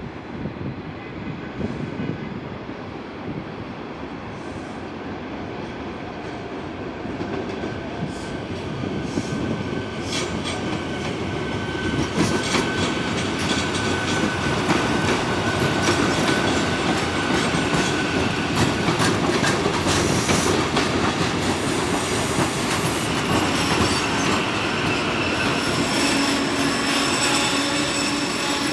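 A passenger train running through the station on steel rails, with the rumble of the wheels and a clatter of clicks over the rail joints. It grows louder about ten seconds in and stays loud, with a thin, steady high whine or squeal above the rumble for a stretch.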